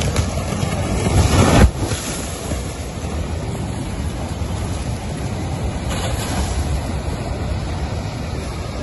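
Steady rushing noise of a storm outdoors, wind and surge buffeting the microphone. It swells over the first second and a half, cuts off abruptly, and then runs on more evenly.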